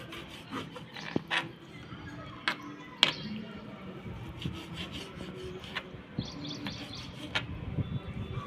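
A knife cutting raw chicken into smaller pieces: scattered sharp knocks with soft rubbing and handling sounds between them.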